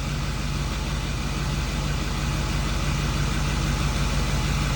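Ford 6.4 Powerstroke V8 turbo-diesel idling steadily.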